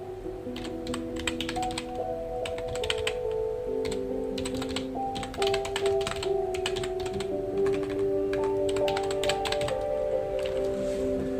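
Computer keyboard typing in quick bursts of keystrokes with short pauses, stopping near the end. Soft background music plays under it.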